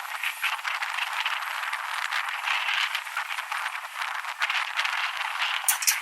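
Wind buffeting the microphone while riding an electric skateboard, with a continuous irregular rattling clatter from the ride over pavement, and two brief sharp high clicks near the end.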